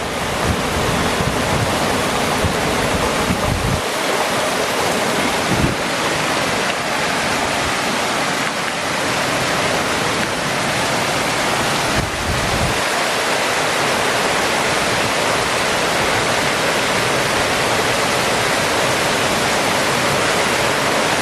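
Heavy rain pouring down in a steady hiss, with gusts of wind buffeting the microphone in the first few seconds and briefly again about twelve seconds in.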